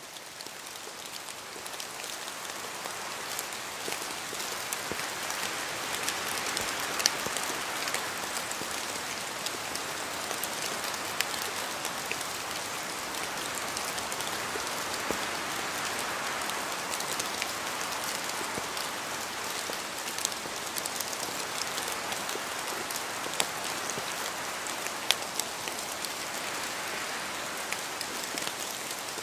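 Steady rain falling, with scattered louder drop hits standing out from the patter. It fades in over the first few seconds, then holds level.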